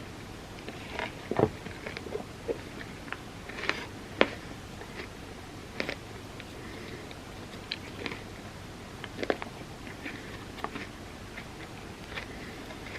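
Close-miked eating of a Biscoff cookie-butter ice cream sundae: biting and chewing, heard as irregular crisp clicks and wet crackles, with two louder bites early on.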